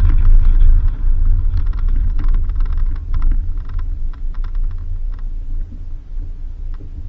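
Vehicle driving on an unpaved dirt road: a steady low rumble of engine and tyres, easing slightly about a second in, with scattered sharp clicks and rattles of gravel and loose parts.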